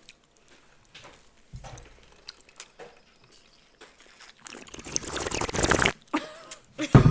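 A few soft clicks, then a loud burst of rustling, crunching noise right at the microphone for about a second and a half, then a sharp thump near the end.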